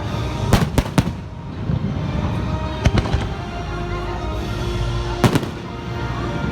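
Fireworks shells bursting in sharp bangs: three in quick succession in the first second, a pair about three seconds in, and another after five seconds. They sound over the show's music from loudspeakers.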